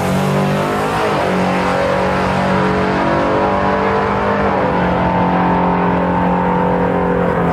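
Trucks' engines at full throttle on a drag-race run, a loud, steady engine note that climbs in the first second and changes pitch about four and a half seconds in.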